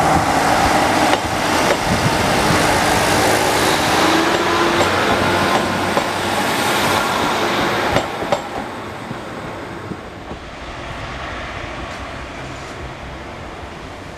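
Class 156 diesel multiple unit passing close by, its engine and wheels loud on the rails, with a few sharp clicks as the wheels cross rail joints. About eight seconds in the sound drops suddenly to the quieter, steady running of a train farther off.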